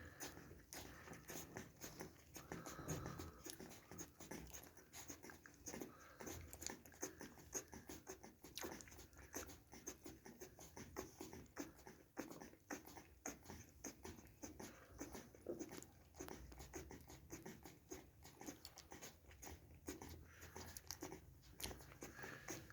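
Litter of twelve-day-old Neapolitan Mastiff puppies making faint squeaks and grunts, with many small clicks and rustles as they move about.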